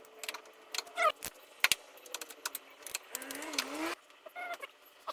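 Scattered metallic clicks and clinks of hand tools and bolts being handled, with a short chirp about a second in.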